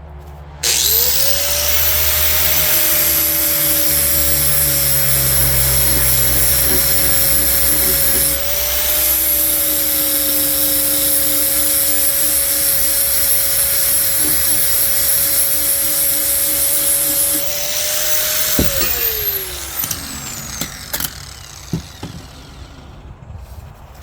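Electric angle grinder switched on and spinning up quickly, then grinding the edge of a steel lawnmower blade for about seventeen seconds, a steady motor whine under a harsh grinding hiss. Near the end it is switched off and its pitch falls as it winds down, followed by a few light clinks.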